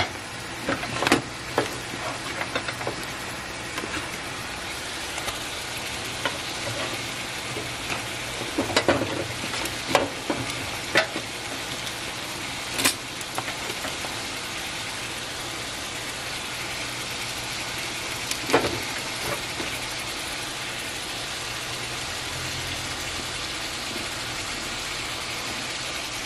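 Chicken pieces, onions and green chiles sizzling steadily in a skillet after a lump of cream cheese has been added, with a few sharp clicks and knocks against the pan, mostly in the first half.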